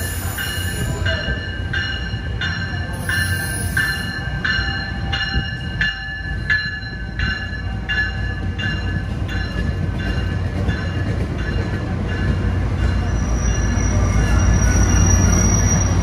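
Diesel-hauled commuter train pulling into a station: a bell rings about twice a second for the first ten seconds or so over the steady rumble of the train. Near the end the rumble grows louder as the BL36PH diesel locomotive at the rear draws alongside, with a high steady whine.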